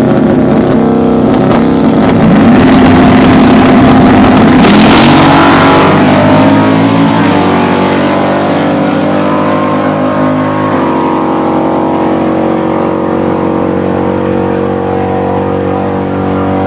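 Turbocharged drag-racing truck engine running loud, rising in pitch and loudness about four to six seconds in, then settling into a steady drone that steps down slightly in pitch near eleven seconds.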